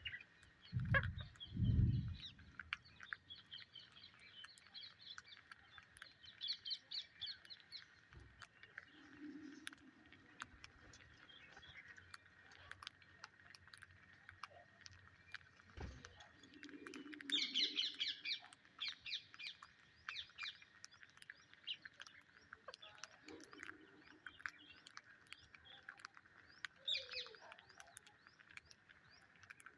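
Parrots chirping in quick runs of short high notes, in bursts a few seconds in and again past halfway, over a steady faint high drone. A couple of low thumps come near the start and one more around the middle.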